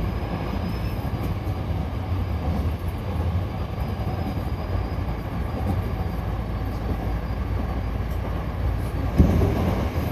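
Hankyu commuter train running between stations, heard from aboard: a steady low rumble of wheels and running gear on the track, with a single thump about nine seconds in.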